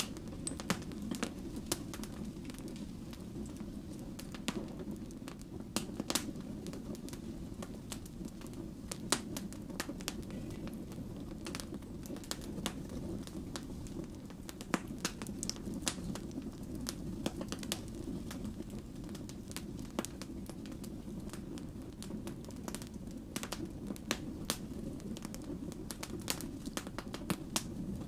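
Firewood logs burning, crackling with many sharp, irregular pops over a steady low rumble of the flames.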